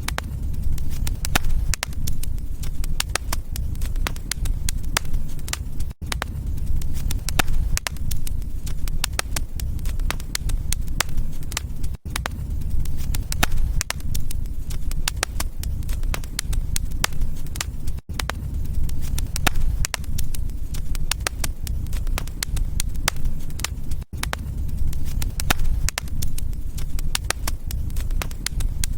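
Wood fire crackling in a fireplace: dense, irregular sharp pops and snaps over a steady low rumble of the flames. The sound drops out briefly about every six seconds.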